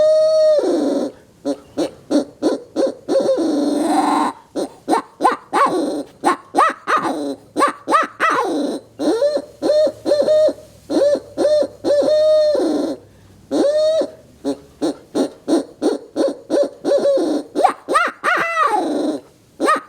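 Mouth-blown barred owl call, a turkey-hunting owl call, sounding a long run of barred owl hoots. In the middle is a fast series of short notes, the owl's laugh, and near the end come rising screams.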